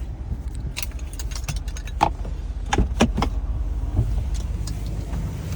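Clicks and knocks of an SUV's center console lid and latches being handled, several sharp ones spread over a few seconds, over a steady low rumble.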